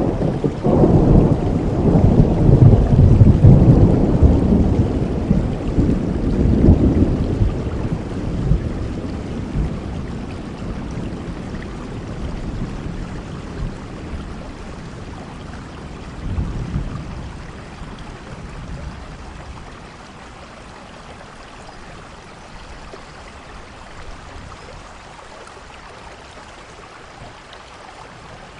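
Steady rain with a long roll of thunder: the rumble swells in the first second, is loudest a few seconds in, and dies away over the following ten seconds or so, with a smaller rumble about halfway through, leaving the even rain hiss.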